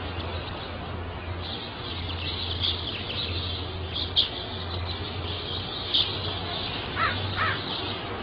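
Birds chirping steadily, with a few sharper, louder chirps and two short calls close together near the end, over a steady low hum.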